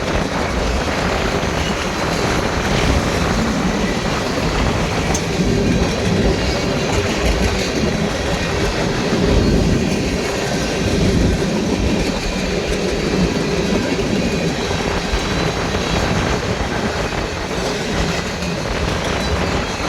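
Freight train cars rolling past steadily, with wind buffeting the microphone.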